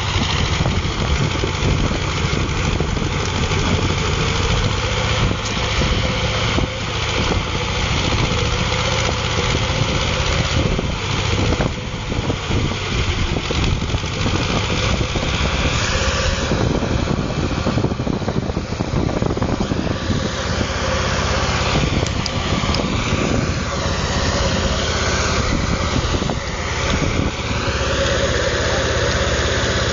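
Tractor engine running steadily, its pitch rising and falling several times in the second half.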